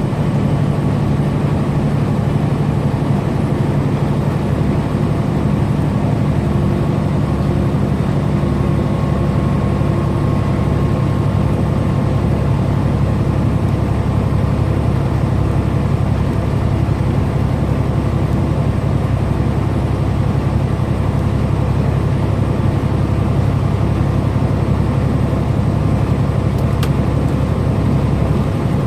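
Semi truck's diesel engine droning steadily with road noise at highway cruising speed.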